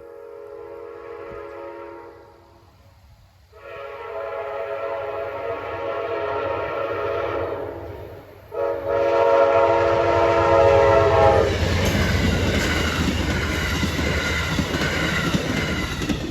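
Train horn sounding long chord blasts, one ending about three seconds in and two more at about four and three seconds long. A loud rumble with clattering wheels takes over midway as the train passes close by.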